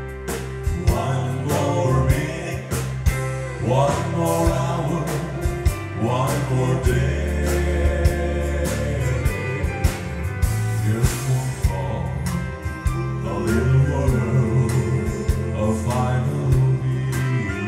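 Live gospel song played by a band with drums and bass, and with singing over it.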